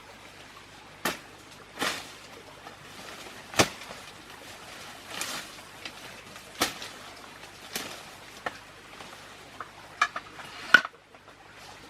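Irregular knocks and clinks of hard objects being handled, about a dozen spread unevenly, the loudest a sharp clink just before the end.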